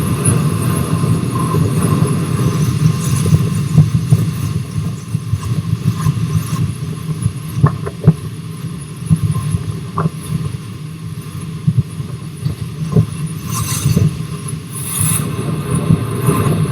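Rx207 steam train running along the line: a steady low rumble with scattered clacks, some in pairs about half a second apart, as of wheels over rail joints. Two brief hissing bursts come near the end.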